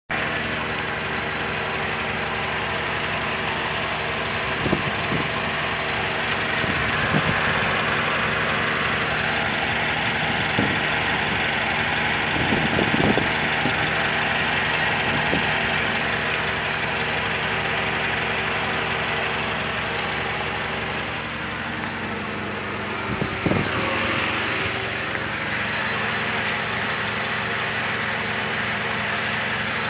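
Car engine idling steadily, with a few brief knocks.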